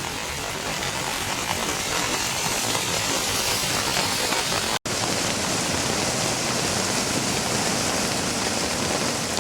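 Heavy rain falling in a steady hiss, breaking off for an instant about five seconds in.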